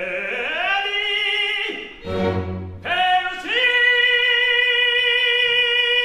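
Operatic singing with orchestra: the voice glides down and back up, breaks off briefly, then holds one long high note.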